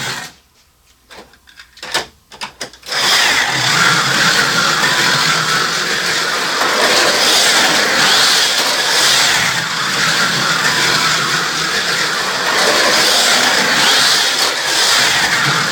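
Near silence with a few sharp clicks for about three seconds, then Carrera Go 1/43 scale slot cars start up and run around the plastic track, their small electric motors giving a loud, steady whine.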